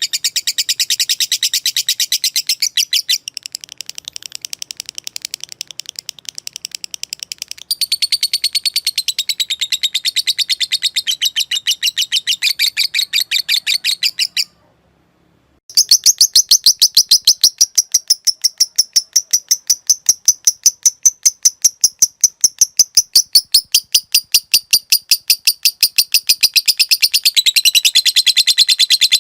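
Lovebird giving a long, rapid chattering trill ('ngekek'), a fast even run of sharp, high notes. The trill softens for a few seconds early on, breaks off into about a second of silence near the middle, then resumes louder and carries on unbroken.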